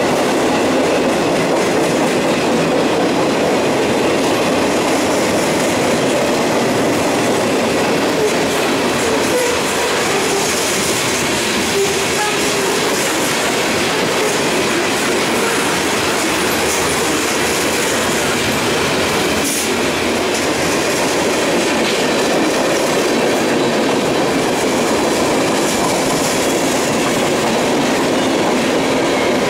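Norfolk Southern freight train's covered hoppers and boxcars rolling past close by: a loud, steady, unbroken rush of steel wheels on rail.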